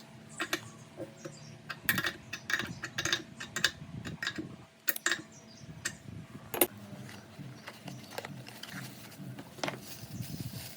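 Irregular metallic clicks, clinks and knocks of hand work on machine parts, with a faint steady hum underneath; the sharpest knock comes past the middle.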